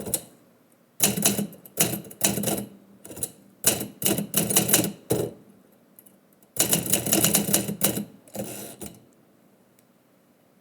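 Typewriter keys being struck in quick runs of clicks, with a short pause in the middle, stopping about a second before the end.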